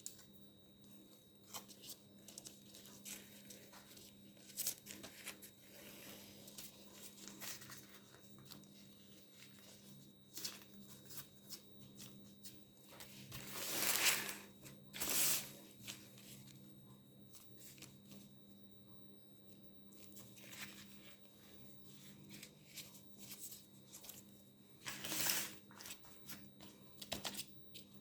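Thin pastry sheets being folded and pressed by hand, crinkling and rustling in short spells with a few small clicks; the loudest rustles come about halfway through and again near the end. A faint steady hum runs underneath.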